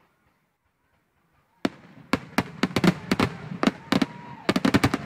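Silent for the first second and a half, then aerial fireworks shells bursting in a rapid, irregular volley of sharp bangs that comes faster toward the end.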